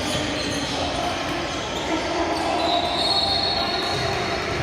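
Basketball being dribbled on a gym court over the steady noise of the gym, with a high sneaker squeak lasting about a second past the middle.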